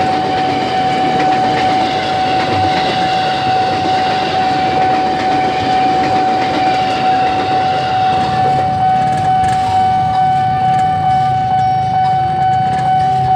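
JR 205 series electric commuter train rolling past at close range. A level-crossing warning alarm sounds a single steady high tone over the rumble of the train.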